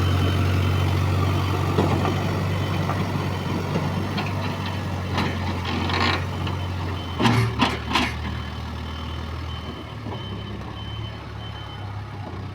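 JCB 3DX backhoe loader's diesel engine running steadily, with its reversing alarm beeping over it. Three sharp knocks a little past halfway, after which the engine note shifts.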